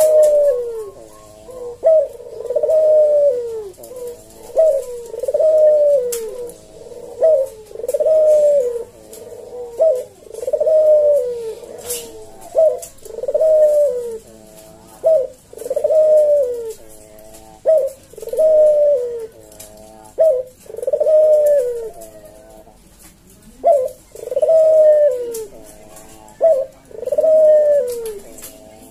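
A puter (ringneck dove) giving its display coo over and over: a short note followed by a longer falling coo, about every two seconds. It is a deep, sharp coo from a bird in full song.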